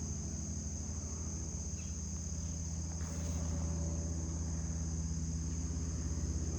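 Crickets chirring steadily, with a low, steady drone underneath that grows slightly louder about three seconds in.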